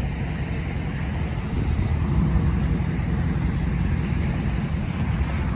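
Dodge Charger Scat Pack's 392 Hemi V8 exhaust, with the mid muffler deleted, running steadily with a deep low rumble that swells slightly about two seconds in.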